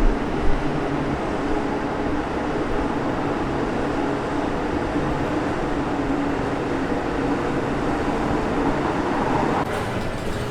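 Steady close rumble of a large vehicle running, with a low hum in it. Two short knocks come in the first half second, and the sound shifts near the end.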